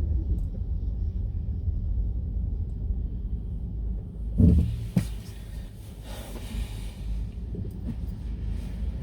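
Low, steady road rumble of a car heard from inside the cabin while driving, with a loud thump about halfway through and a sharp click just after it.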